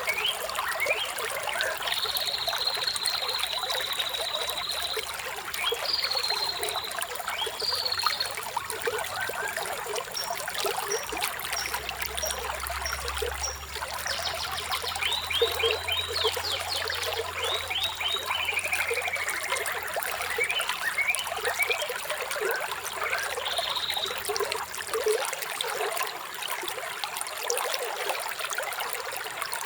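Running water trickling steadily, as in a small stream, with birds chirping over it: quick chirps, a long high trill in the first few seconds, a string of thin high notes midway, and a falling trill after it.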